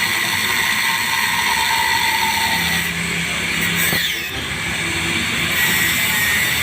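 Motor running steadily with a high whine, dipping briefly about four seconds in.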